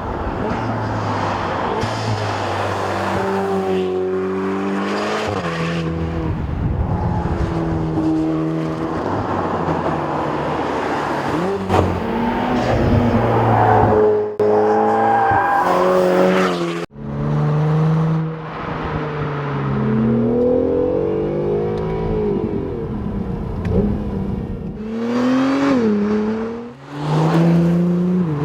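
High-performance car engine and exhaust under hard acceleration, the pitch climbing and falling repeatedly through gear changes and lifts. The sound breaks off sharply about 17 seconds in and picks up with another run.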